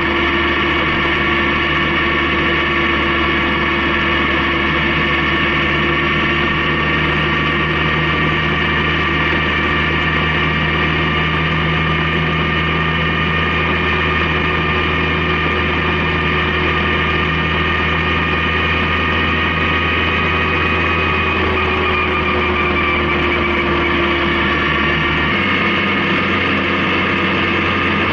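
Honda CB750K's inline-four engine running steadily, its drone holding pitch with slow drifts and its low note changing abruptly about 25 seconds in.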